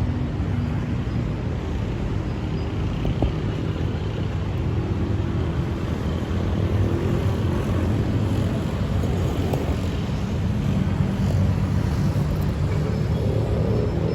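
Steady road traffic noise: many vehicle engines and tyres blending into one continuous rumble.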